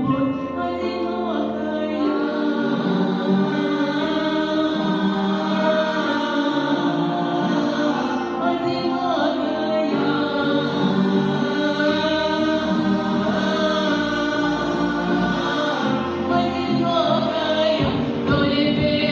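A choir singing a song with musical accompaniment, in long held notes over a steady bass line.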